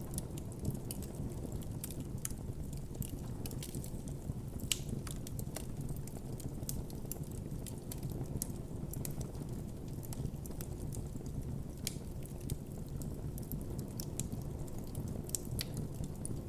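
Wood campfire burning with a steady low rush of flames and irregular sharp crackles and pops.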